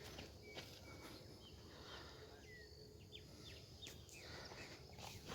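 Faint open-air field ambience with scattered short bird chirps and calls, and a few faint clicks.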